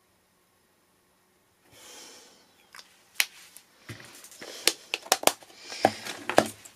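Rustling and a series of sharp clicks and taps from craft supplies being handled on a work table. The sound begins after a brief silence, and the clicks get louder and more frequent toward the end.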